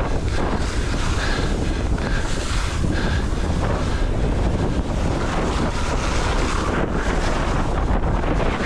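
Steady, loud wind rush buffeting the microphone of a skier on the move downhill through deep snow.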